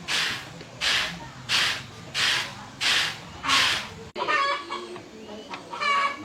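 Six evenly spaced rasping strokes, then after an abrupt cut a chicken clucking in short calls.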